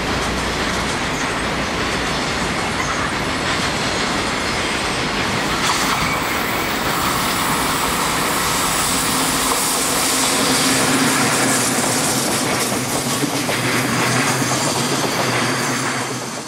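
Container freight train of Koki 50000 and Koki 104 flatcars rolling past at speed, with a steady loud clatter of steel wheels on the rails.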